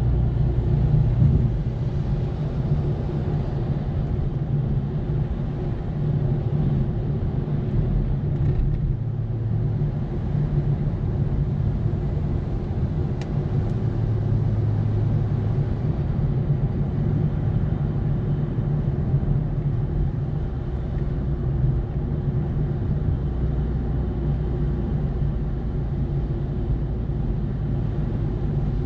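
Car driving steadily, heard from inside: a low engine drone that swells and eases now and then, with road noise underneath.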